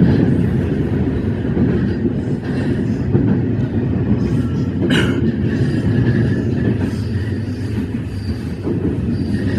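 E131-series electric train running along the line, heard from the cab as a steady rumble of wheels on rail. About five seconds in there is one sharp click, followed by faint short wheel squeals.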